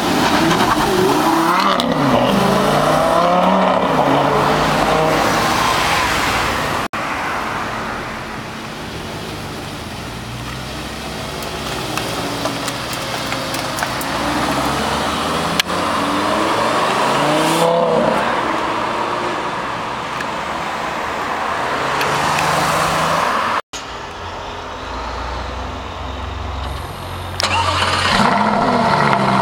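Lamborghini Gallardo LP560-4 Spyder's V10 accelerating hard from a standstill, its pitch rising and dropping through the gear changes, with more bursts of revving later. Near the end the engine starts with a sudden flare of revs and settles into a steady idle.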